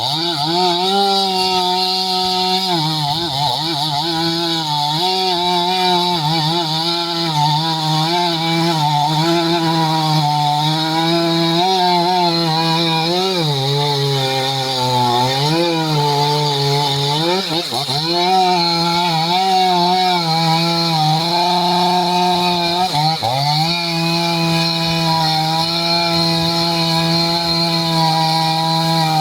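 Stihl MS 500i two-stroke chainsaw running at full throttle while cutting hardwood. Its engine pitch sags under load several times and picks back up, with one deeper dip near the end.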